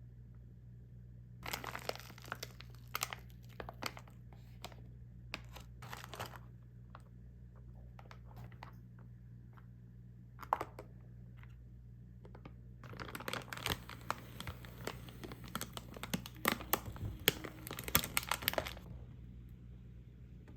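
Plastic frozen-food packaging being crinkled and torn open, in a few short bursts early on and then a longer, denser stretch of crackling in the second half.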